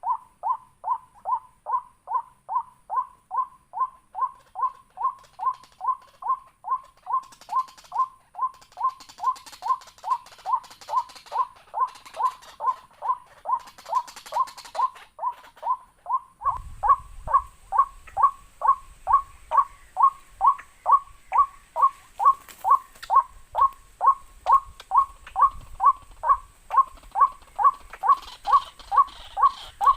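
A waterhen call, one short slightly falling note repeated very evenly about twice a second, used as the call that lures birds to the trap. About halfway through, a low rumble and a thin high steady tone come in underneath.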